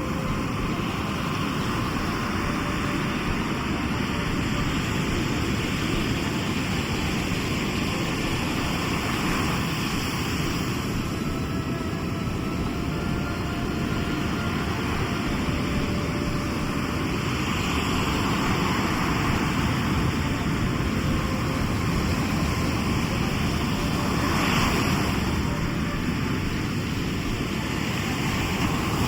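Sea waves surging and washing on the shore in a continuous, low-heavy rush, with a wave building and breaking every several seconds.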